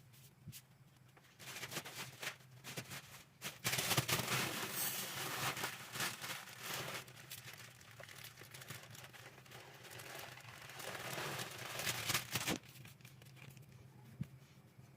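Plastic packaging crinkling and rustling as it is handled. A dense crackle starts about a second and a half in, is loudest around four to seven seconds, and stops abruptly about twelve and a half seconds in.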